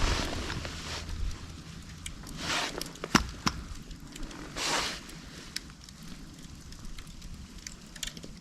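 Bundle of split dried bamboo burning as a Swedish torch, with scattered sharp crackles and pops and two brief hisses. A low rumble fades out in the first second.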